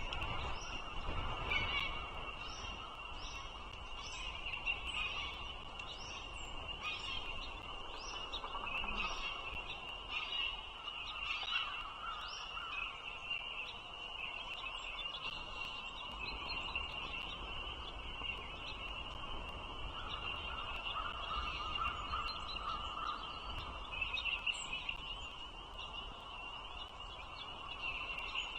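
Bald eagles at the nest giving high chirping calls, repeated about twice a second for the first dozen seconds and then more scattered, over a steady high background note and a low wind rumble.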